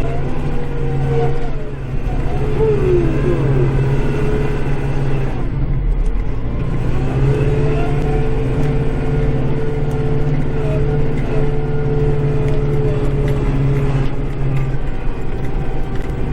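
Kubota tractor's diesel engine running steadily under load, heard from inside the cab, with a whine above it that dips and recovers in pitch a few times.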